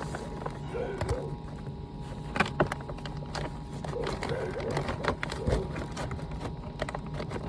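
Scattered knocks and clicks of hands and tools moving about in a cramped space, over a steady low hum.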